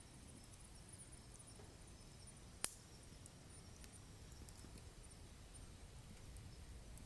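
Firewood burning in a wood stove, crackling faintly with small scattered ticks and one sharp, loud pop about two and a half seconds in.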